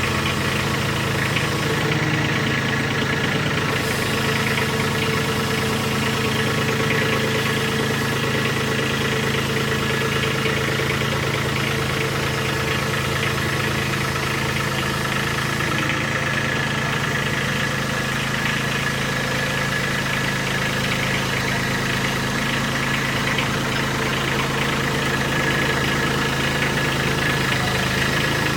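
An engine running steadily at idle, its sound unchanging.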